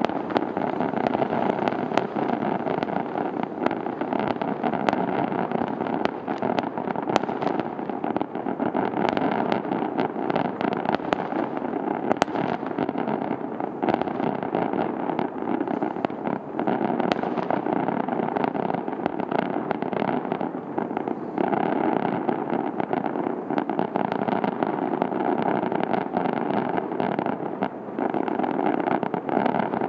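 Aerial fireworks display going off in a dense barrage: overlapping bangs and crackling merge into a continuous din, broken by many sharp reports.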